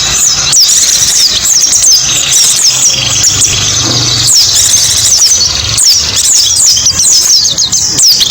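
White-eyes (pleci) singing: a rapid, continuous stream of high, thin chirps, each sweeping downward, over a low hum.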